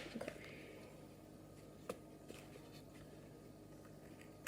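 Near silence: faint room tone with a few light clicks, a cluster near the start and single ones about two seconds in.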